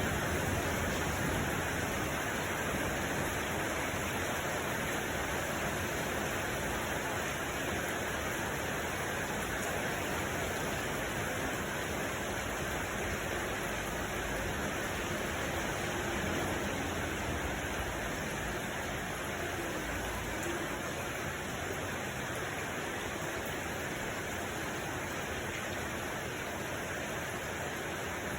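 Steady heavy rain, an even rushing hiss with no separate drops, easing a little over the stretch.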